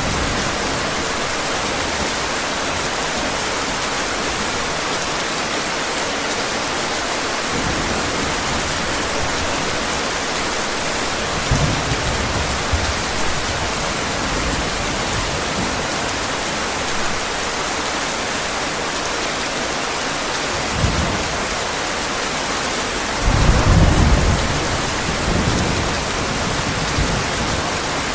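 Steady heavy rain, with low rumbles of thunder rolling in several times, the loudest about two-thirds of the way through.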